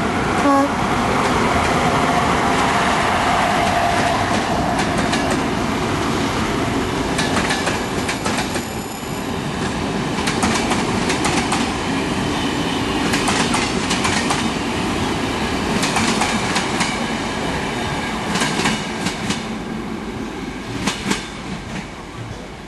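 Steam-hauled train running along the track, its wheels clattering over the rail joints in a run of clicks.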